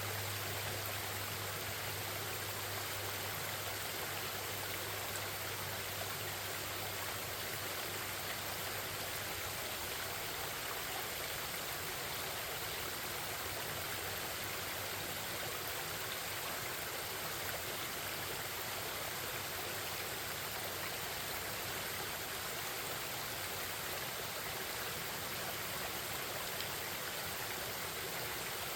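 Forest stream babbling steadily over rocks, a continuous rush of water. A low steady hum sits underneath and fades out about nine seconds in.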